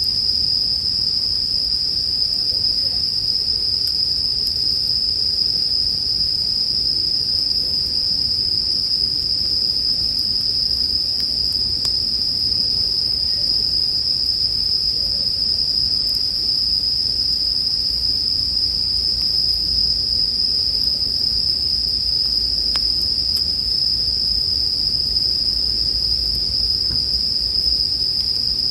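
A steady chorus of Japanese bell crickets (suzumushi) singing, a continuous high ringing trill, over a low campfire rumble with a few faint crackles.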